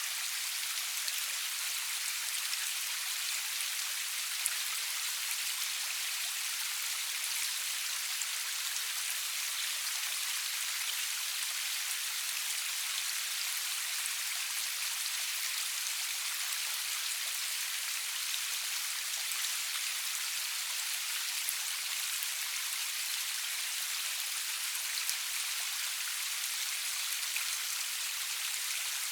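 Steady rain falling, an even hiss with many fine drop ticks and no thunder.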